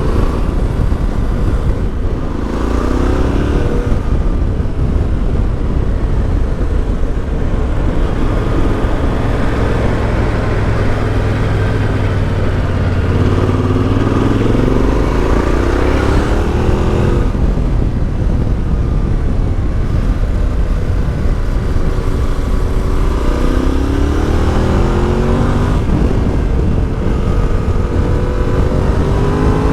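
Yamaha Ténéré 700's CP2 parallel-twin engine running through an Akrapovic exhaust, accelerating hard several times with its pitch climbing and dropping back between gears as the bike rides up mountain hairpin bends.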